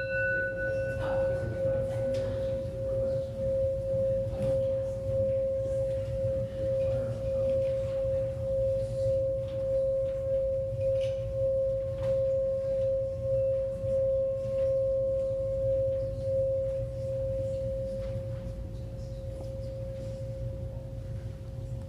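Singing bowl ringing out after a single strike: one steady tone with a slow wavering pulse that fades gradually toward the end. A low, steady hum sits underneath.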